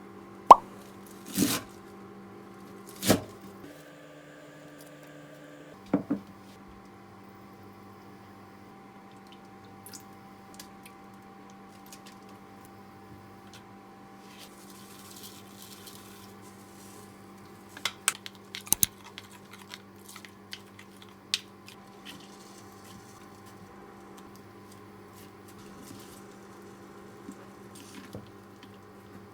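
Kitchen handling sounds: scattered sharp clicks and knocks of containers and packaging over a steady electrical hum. The loudest knocks come in the first few seconds, with a quick cluster of clicks about two-thirds of the way through.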